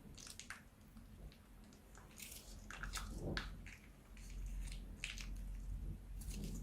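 Slime being handled and worked, giving scattered soft crackles and squishes, with a denser crackly stretch about three seconds in.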